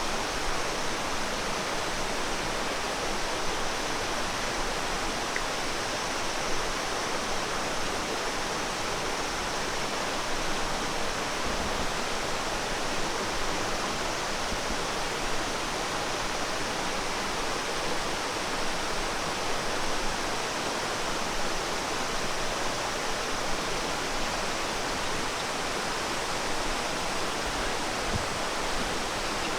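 Steady, unbroken rush of flowing water, a continuous even noise with no changes or events.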